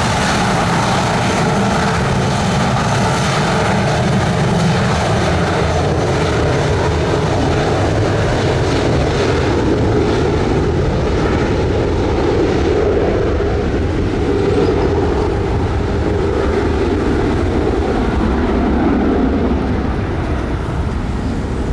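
Jet aircraft engines: a loud, continuous rumble with a deep low end and no break.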